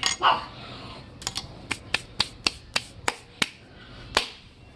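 A run of about ten sharp clicks or snaps, roughly four a second, with the last one the loudest.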